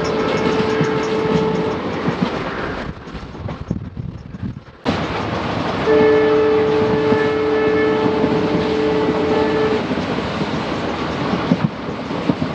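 Moving passenger train heard from the open door of a coach: a steady rush of wheel and wind noise. The locomotive's horn sounds briefly at the start, then again in one long blast from about six seconds in to nearly ten seconds.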